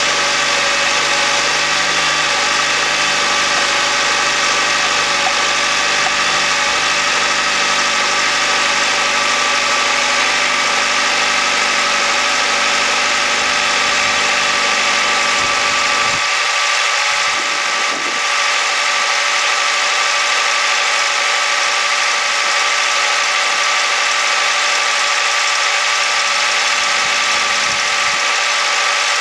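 Honda Odyssey e:HEV's engine running steadily after a cold start, with the light rattling (karakara) noise this car makes when cold, which the dealer says other owners have reported too. Its deepest hum drops away about halfway through.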